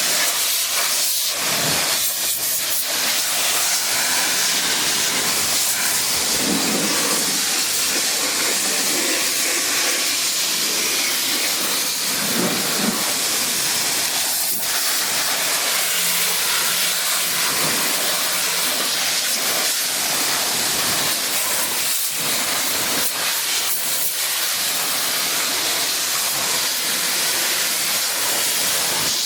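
Pressure washer jet spraying steadily into a truck's engine bay, a continuous loud hiss of water.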